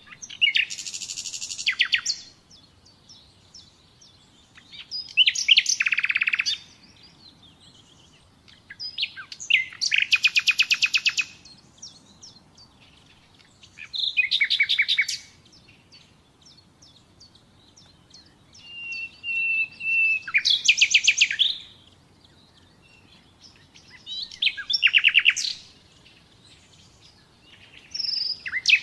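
Common nightingale singing: short, varied song phrases of rapid repeated notes and trills every four or five seconds, one of them opening with a long steady whistle.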